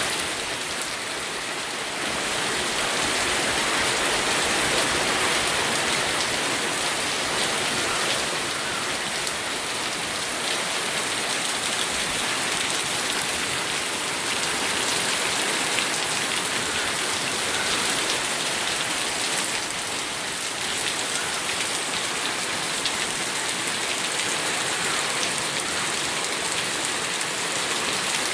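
Steady rain falling: an even hiss of rainfall with individual drops ticking through it.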